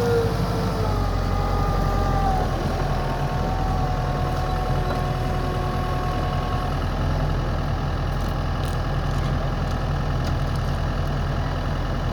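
Diesel engine of a 2001 Venieri VF 9.23 backhoe loader idling steadily. A whine that is loud at the start falls in pitch and fades away over the first couple of seconds.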